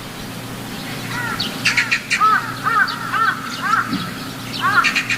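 Birds calling: from about a second in, a quick run of short arched chirps mixed with sharp clicky notes, over a steady low hum.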